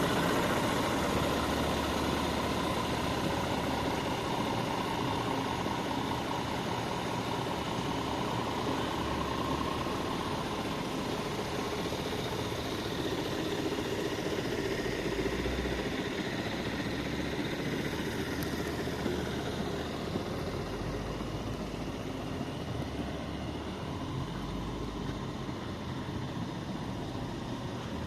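Scania G490 truck's 13-litre six-cylinder diesel engine idling steadily, growing slightly quieter toward the end.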